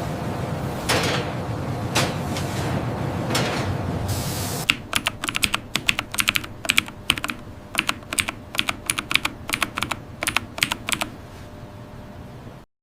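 Steady factory machinery noise with three sharp whooshing hits. About five seconds in the noise drops away and a fast, irregular run of light clicks takes over, then the sound cuts off abruptly just before the end.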